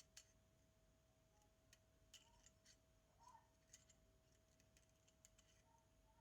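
Near silence with faint, scattered small clicks and ticks, about ten of them at uneven intervals, over a faint steady hum.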